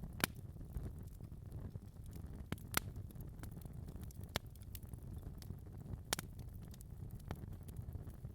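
Wood fire crackling in a fireplace: a steady low rumble of burning with many small ticks and a handful of sharp, louder pops scattered through.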